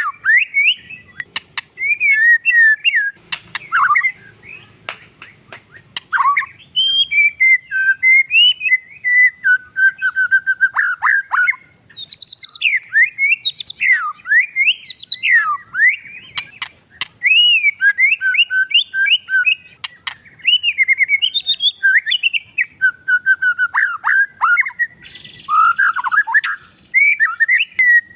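Oriental magpie-robin (kacer) singing in full song: a rich, varied run of whistled phrases that glide up and down, broken by quick chattering notes, with only short pauses.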